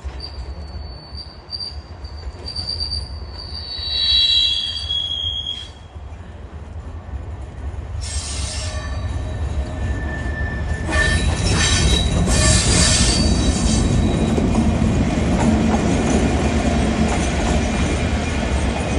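GBRf Class 69 diesel locomotive passing, its wheels squealing in high tones during the first few seconds over a low engine rumble. The rumble and rail noise build and stay loud through the second half.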